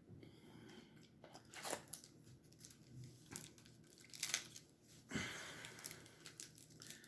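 Trading cards being handled and flipped through: faint, scattered rustles and scrapes of card stock, with a longer rustle a little after the middle.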